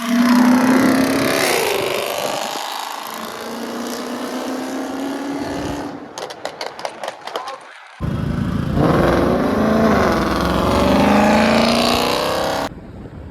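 Ford Mustang GT's V8 exhaust revving: the pitch rises at the start and then holds steady for a few seconds. A run of sharp crackles follows around the middle, then the engine revs again, starting abruptly and cutting off suddenly near the end.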